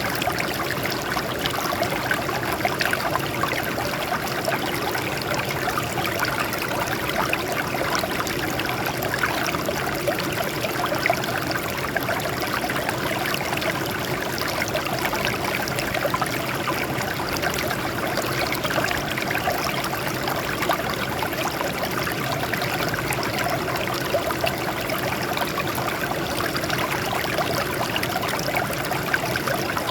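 Water flowing and trickling over rocks in a small stream, a steady babbling splash without pause.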